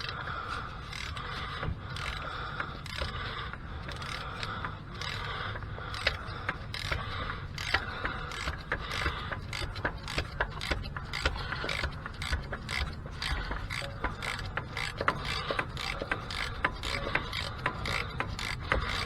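Socket ratchet clicking in short back-and-forth strokes as a small, tight bolt is slowly worked loose; the clicks come faster from about six seconds in.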